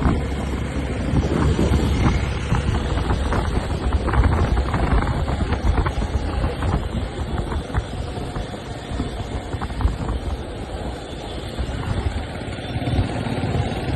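Motorcycle riding along with steady engine and road noise, and wind buffeting the microphone.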